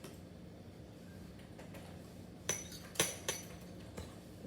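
Hard kitchenware clinking: three sharp clinks about half a second apart in the second half, the first two with a short ringing tail, then a lighter tap, like a utensil or bowl knocking against glass or ceramic dishes.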